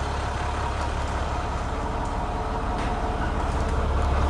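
A 2012 International 4300 truck's diesel engine idling steadily, growing slightly louder near the end.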